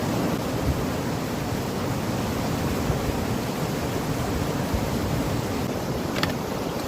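Steady rushing noise, with two short clicks near the end.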